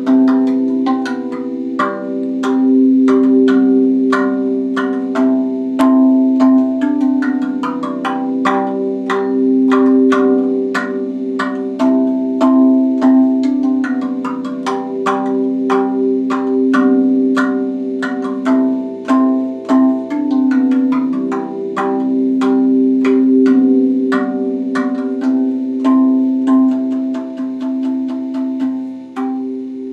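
RAV Vast steel tongue drum played by hand: a steady run of struck, ringing notes, several a second. Deep notes hum on beneath the quicker higher ones.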